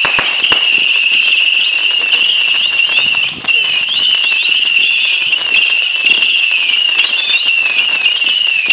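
Whistling firework shots climbing one after another. They make a steady shrill whistle with many shorter rising and falling whistles overlapping above it, and the sound briefly dips about three and a half seconds in.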